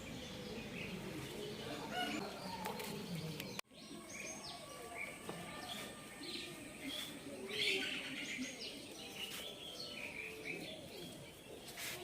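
Birds chirping and calling over a quiet outdoor background, in many short chirps. The sound drops out for an instant a little over three seconds in.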